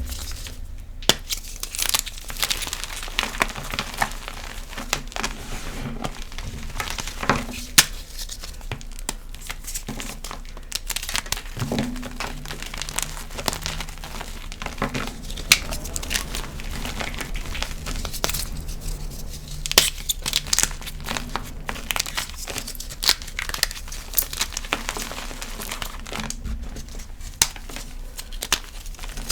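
Crisp gym chalk crunching and crackling as it is crushed and crumbled by hand, a dense run of irregular sharp crunches with a steady low hum underneath.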